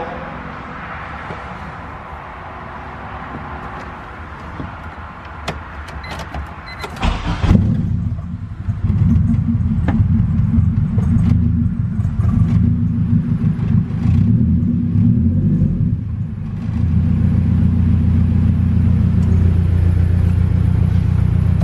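Honda K-series four-cylinder engine in an Acura Integra, cranked and catching about a third of the way in, after a few small clicks, then idling steadily. The idle note shifts and steadies about two-thirds of the way in.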